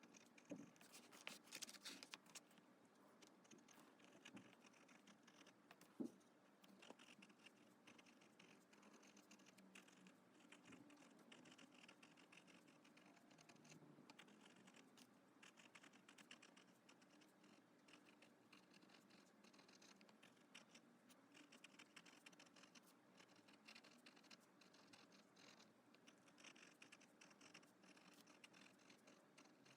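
Faint scratching of an Esterbrook Estie fountain pen's nib writing on paper, with scattered small ticks and one sharper tap about six seconds in.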